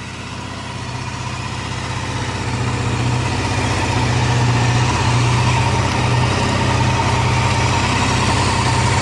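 Honda CBR250R (MC19) motorcycle's small four-cylinder engine running steadily. It grows louder over the first few seconds, then holds even, a sound the seller describes as free of abnormal noise.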